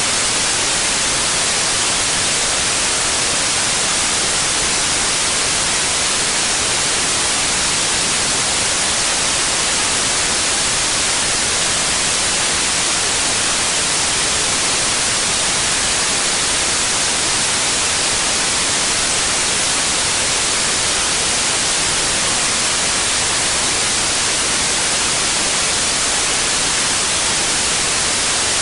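Steady, unchanging white noise: an even hiss that is loudest in the high frequencies.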